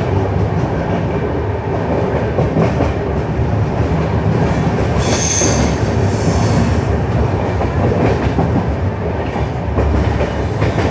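Lalgarh–Prayagraj SF Express coaches running along the track, a steady rumble and rattle of wheels on rails, with a brief high-pitched wheel squeal about halfway through.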